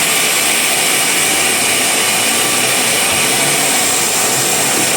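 Band sawmill running steadily, its blade cutting through a log with a loud, even hiss and whine.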